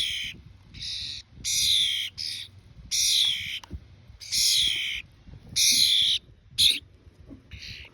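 Young birds giving a string of harsh begging calls, about one a second, some loud and some quieter as more than one bird calls, while being hand-fed.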